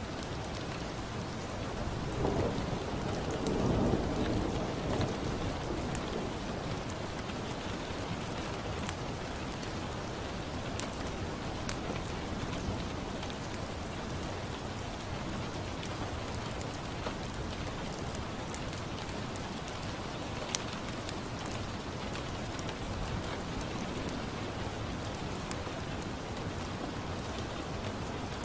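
Steady rain with a crackling fireplace, sharp little crackles popping at random over the rain's hiss. A low rumble swells and fades about two to five seconds in.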